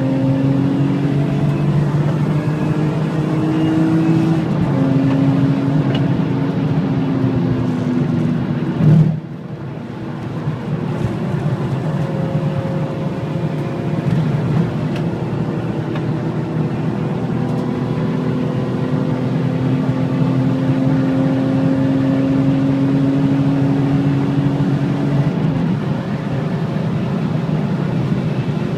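BMW M3 E46's 3.2-litre straight-six running under hard acceleration, heard from inside the cabin. Its pitch climbs slowly and falls sharply at SMG upshifts about five seconds in and near the end. There is a brief loud thump about nine seconds in.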